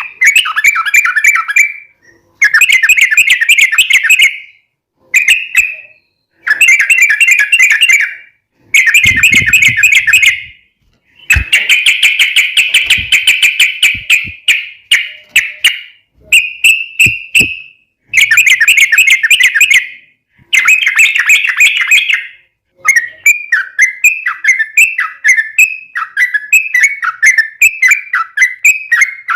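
Yellow-vented bulbul (trucukan) singing loudly in long, fast-trilled phrases of one to two seconds each, with short pauses between them. About two-thirds of the way through, the song changes into an unbroken run of quick downward-slurred notes.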